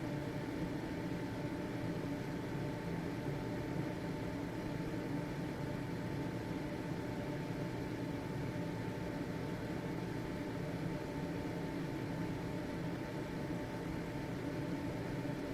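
Household ventilation fan running steadily: an even whirring hum with a thin, steady high tone riding over it.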